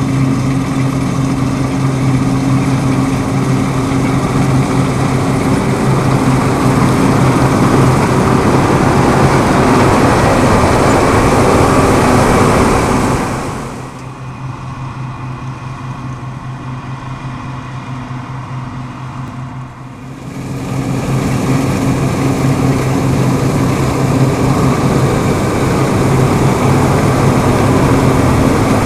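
Deutz-Fahr M36.10 combine harvester running steadily while threshing barley, a constant engine hum under a broad machinery rush. About halfway through it turns quieter and duller for some six seconds, then comes back to full loudness.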